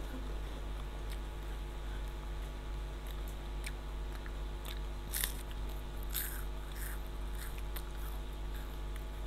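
Crunchy chocolate snack bar being bitten and chewed close to the microphone, with scattered short crunches over a steady low hum.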